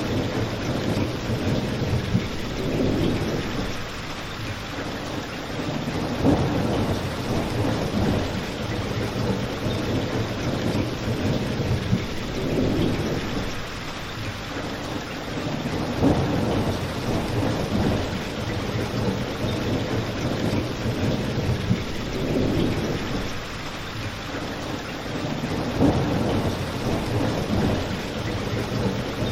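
Steady rain falling, with a low rumble that swells and fades every few seconds.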